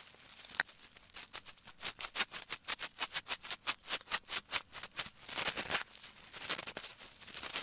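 Ear pick scratching in ASMR ear cleaning: soft scraping strokes, then a quick run of short rhythmic scrapes, about six a second, in the middle, easing back to slower, longer strokes near the end.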